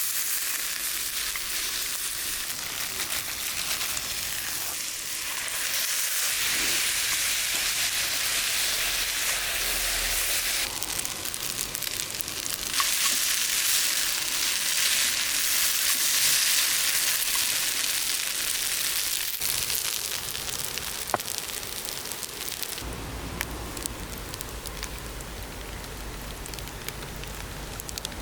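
Food sizzling as it fries: a dense, steady hiss with a few sharp crackles. It gets louder about eleven seconds in and changes abruptly near twenty-three seconds.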